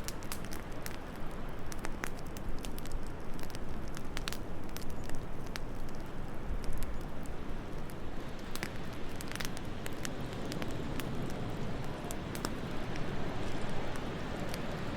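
Wood fire crackling, with sharp pops and snaps scattered irregularly over a steady low rush of wind.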